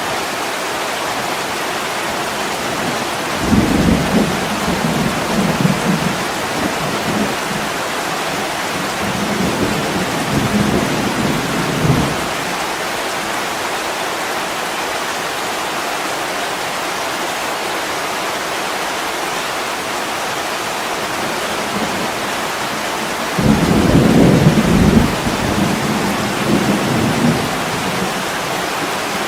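Steady heavy rain on a window, with thunder rumbling twice: a long rumble from about 3 s to 12 s and another from about 23 s to 27 s.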